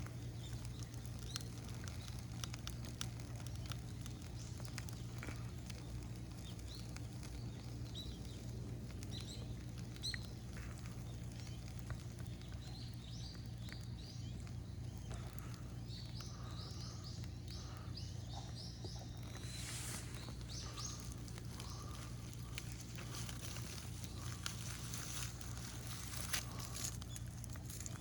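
Faint scattered crackles and ticks from a dying rubbish bonfire, with birds chirping in short high notes in the background, mostly in the middle stretch, over a steady low hum.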